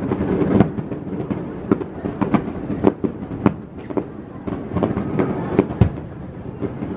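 Fireworks going off: a string of sharp, irregular pops and bangs, several a second, over a steady background rumble.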